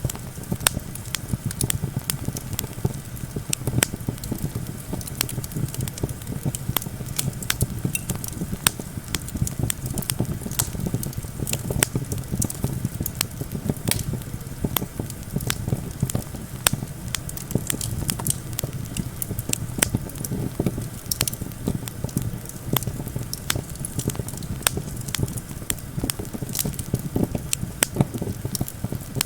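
Campfire crackling with frequent sharp pops at irregular spacing, over a steady low rumble of wind.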